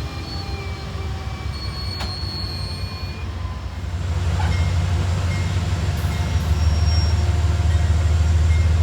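Amtrak diesel train at a station platform: the locomotive's low steady rumble with thin, high wheel squeals over it, growing louder about four seconds in.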